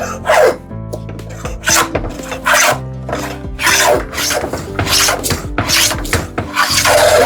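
Repeated strokes of a hand woodworking tool against wood, about one to two a second, over background music.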